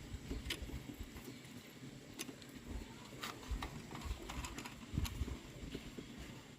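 Irregular light taps and clicks over a low rumble, with the sharpest ones a little past the middle and near the end.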